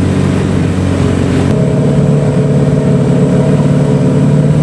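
Motorboat engine running steadily at cruising speed, with an abrupt change in its tone about a second and a half in.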